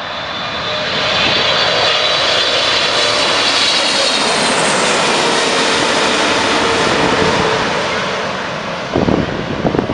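Boeing 777-300ER's GE90 turbofans flying past on a landing approach: a loud jet roar with a high fan whine that falls slightly in pitch, swelling at first and easing toward the end. A few low gusty thumps come near the end.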